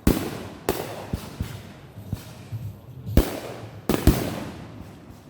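Consumer fireworks going off: a series of loud bangs, each with a long echoing fade, including a quick double bang about four seconds in, with smaller pops in between.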